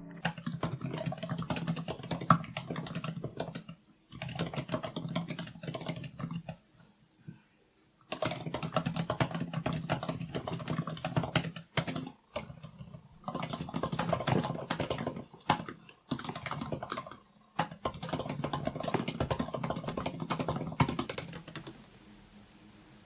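Typing on a MacBook Air M1's scissor-switch keyboard: quick runs of soft key clicks in bursts, with short pauses between them and a longer pause about seven seconds in. The typing stops shortly before the end.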